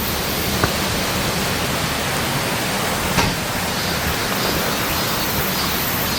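Steady, even rushing noise, with a faint click about half a second in and another about three seconds in.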